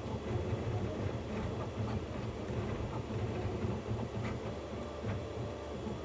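Qidi Q2 3D printer running, its motors giving low, changing tones as the print head moves, with a rattle from the loose print head.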